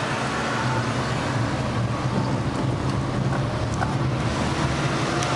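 Road traffic noise: a steady hum of vehicle engines with tyre and road noise.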